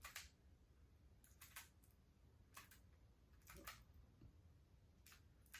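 Faint plastic clicks of a Rubik's Cube being turned by hand, about eight sharp clicks at an uneven pace, some in quick pairs and threes.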